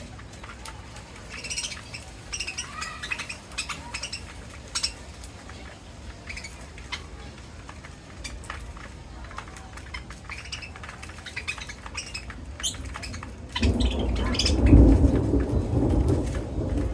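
Parrots, Indian ringnecks, giving short scattered chirps and squawks, with small clicks among them. About three seconds before the end, a loud low rumble comes in and drowns them out.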